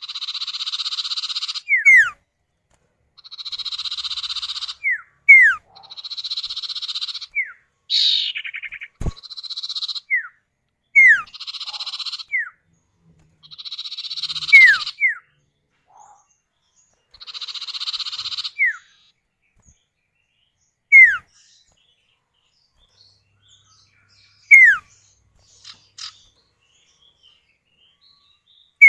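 Common iora (cipoh) calls, male and female answering each other: buzzy trills a second or two long alternate with sharp falling whistles, the whistles the loudest. The calling is dense for about two-thirds of the time, then thins to two lone whistles near the end.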